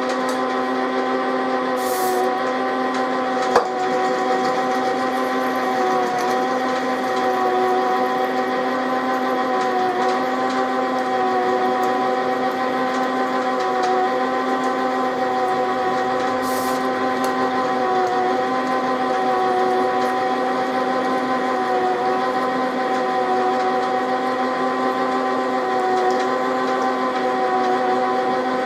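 Metal lathe running steadily with a gear whine of several steady tones that waver slightly about every two seconds, while a 6.5 mm tapping-size hole for a 5/16 Whitworth thread is drilled. One sharp click about three and a half seconds in.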